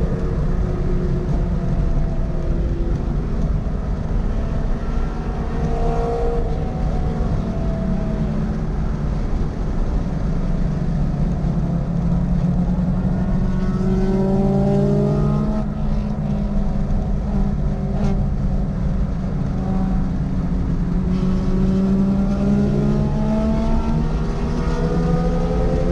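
Toyota GR86's 2.4-litre flat-four engine at speed on a race track, its pitch climbing under acceleration and dropping off several times as the driver lifts and shifts.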